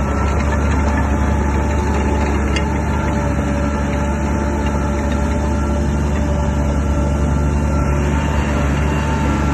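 Heavy diesel engine of a Shantui DH17 crawler bulldozer running steadily under load, an even, continuous machine sound with a deep low hum and a few steady higher tones.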